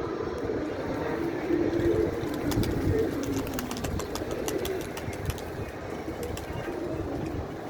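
Domestic pigeons cooing close by in repeated low notes, with a scatter of faint clicks in the middle.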